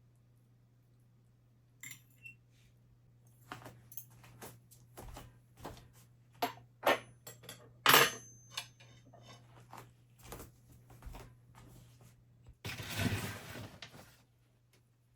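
Dishes and cutlery clinking and knocking in a kitchen, a string of sharp clinks with the loudest about halfway through, then a short rushing noise lasting about a second near the end.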